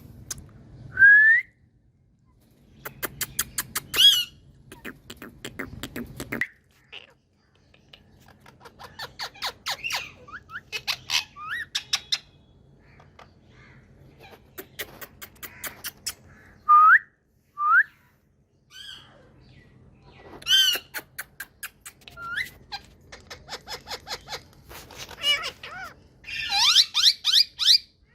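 Indian ringneck parakeets vocalising: trains of rapid clicks, short rising whistles, and a dense run of squawking chatter near the end.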